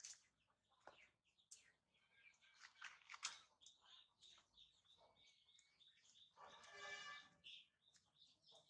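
Faint small birds chirping in short, scattered calls with light clicks, and one longer pitched call of about a second roughly six and a half seconds in.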